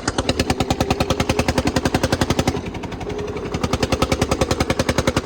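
Tractor diesel engine running with loud, rapid exhaust pops, about ten a second. It is louder for the first couple of seconds, eases briefly, then builds again, as if the throttle is opened twice.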